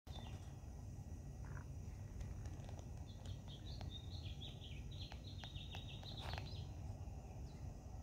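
A wild songbird calling: a quick run of short, high chirps starting about three seconds in and lasting about three seconds, over a steady low outdoor rumble.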